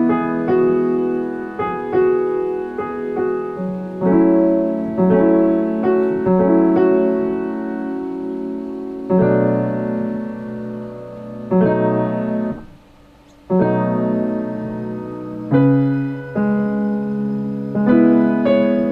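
Solo piano practice: a piece played in struck chords and melody notes in phrases, breaking off briefly about two-thirds of the way through and then resuming.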